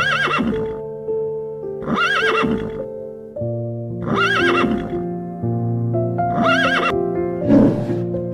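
A horse neighing four times, about two seconds apart, each whinny short and wavering, over piano music. A shorter, lower sound follows near the end.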